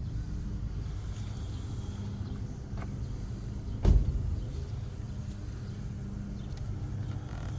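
Car engine idling steadily with a low, even hum. A single sharp knock about four seconds in.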